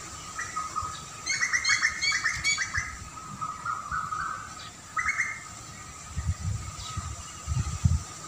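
Wild birds chirping outdoors: a quick run of repeated chirps about a second in, and another short call around five seconds. Low rumbling comes in near the end.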